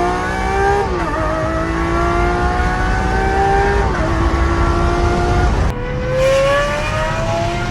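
Lamborghini Aventador's V12 accelerating hard through an F1-style aftermarket exhaust, its pitch rising steadily and dropping at quick upshifts about a second in and again about four seconds in. Near the end it cuts to another pull that rises in pitch.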